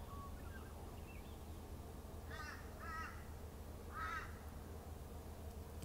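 A bird calling three times in short calls, the last call a second after the first two, over a faint steady low hum.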